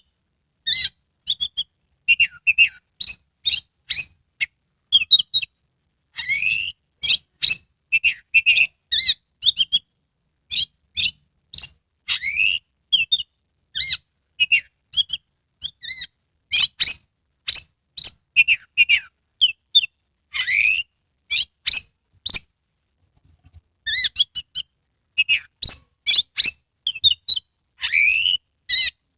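Oriental magpie-robin (kacer) in full song: a fast, loud string of short, sharp whistled notes and chatters, with a few rising whistles and a brief pause about two-thirds of the way through.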